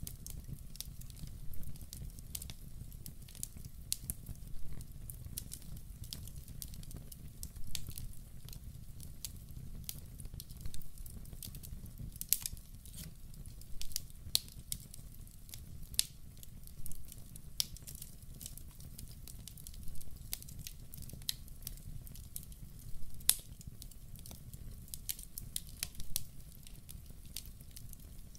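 Wood fire burning in a fireplace: irregular sharp crackles and pops, some in quick little clusters, over a low steady rumble of the flames.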